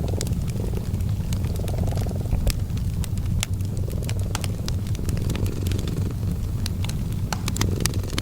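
A cat purring steadily, a low rumble that swells and eases every couple of seconds with its breathing, over the crackling and popping of a fireplace fire.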